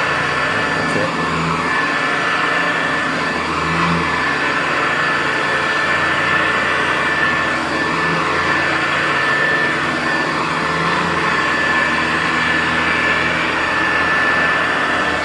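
Hoover U4007 upright vacuum cleaner running on carpet with a steady whine. Its pitch dips and rises every few seconds as it is pushed back and forth.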